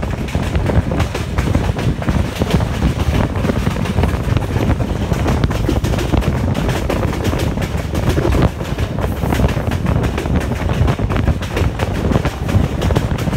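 Passenger train running at speed, heard from an open carriage door or window: a steady rumble with the clatter of wheels on the rails.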